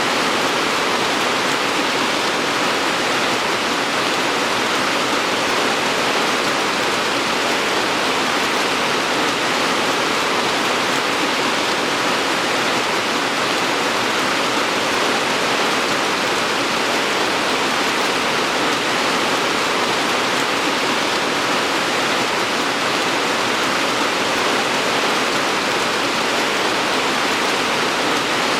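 Steady rain falling, an even, unbroken hiss with no single drops or other events standing out.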